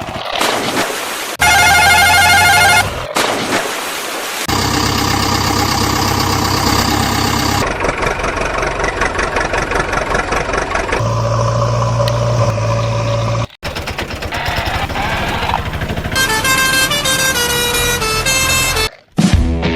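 A string of dubbed-in vehicle sound effects, horns and running engines, that cut abruptly from one to the next every few seconds. Near the end comes a run of melodic stepped beeps.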